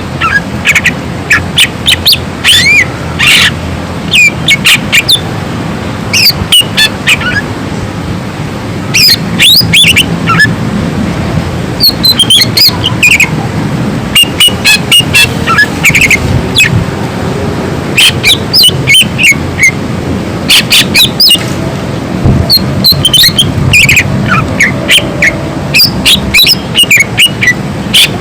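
Greater green leafbird (cucak ijo) singing loudly in phrases of fast, sharp, sweeping notes with short pauses between them, over a steady low background rumble.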